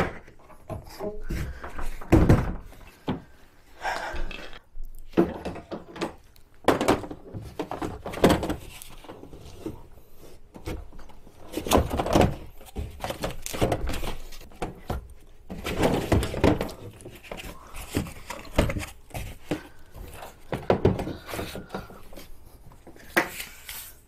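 Irregular thunks, knocks and rubbing as the stiff plastic hull of a Tucktec folding kayak is handled, folded and fitted together during assembly.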